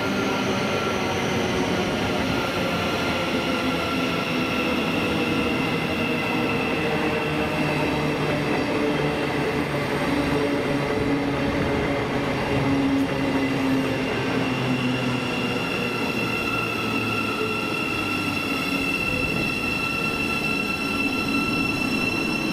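A train running past, a steady rumble and hiss with several high whining tones that drift slowly in pitch.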